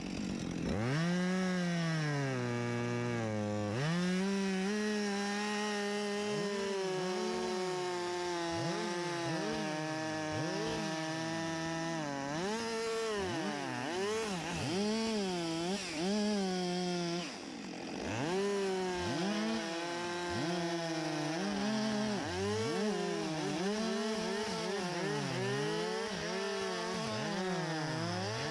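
Two-stroke chainsaw cutting at high revs, its pitch sagging and recovering again and again as the chain bites into the wood. The revs drop off briefly about four seconds in and again about seventeen seconds in.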